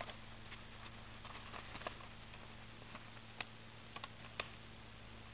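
A square sheet of origami paper being turned over and handled: faint rustling with scattered light ticks and crinkles, a few sharper ones after about three seconds. A faint steady hum underneath.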